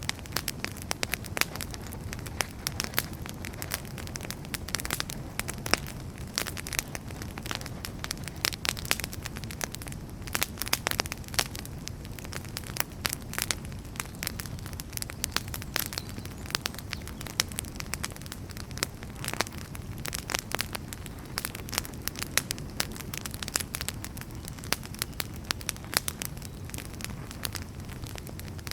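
Burning firewood crackling, with dense irregular pops and snaps over a steady low rumble of the flames.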